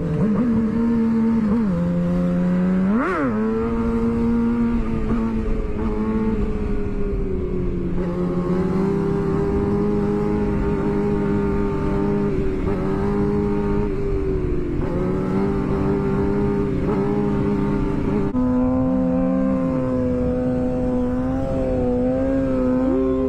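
Sport motorcycle engine running hard at high revs at speed, its pitch holding then stepping to new notes as it shifts gears and changes throttle, with a brief quick rev up and down a few seconds in. A steady low rush of wind runs under it.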